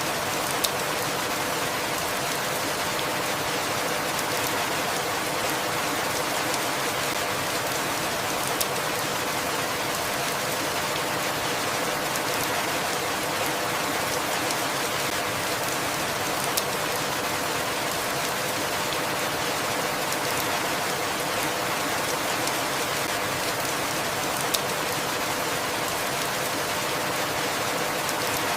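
Steady rain falling, an even hiss with a sharp drop tick about every eight seconds.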